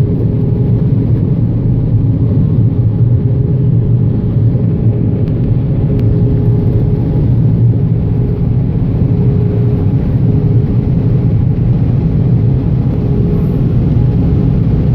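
Steady low rumble of a car's engine and road noise, heard from inside the cabin while driving, with a faint hum that comes and goes.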